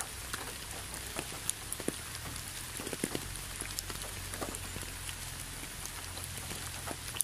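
Steady rain falling: an even hiss with many separate drops ticking irregularly, over a faint low steady rumble.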